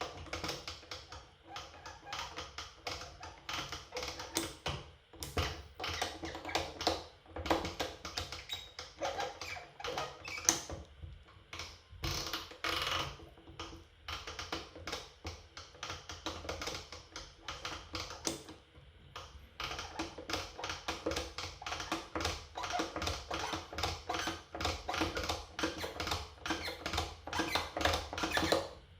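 Temperature-adjustment knob of a TOTO thermostatic bath mixer being turned toward hot, giving a dense run of rapid small clicks with a brief pause partway through. The owner takes this noise, which does not occur toward cold, for a defect in the mixer, like its earlier initial fault.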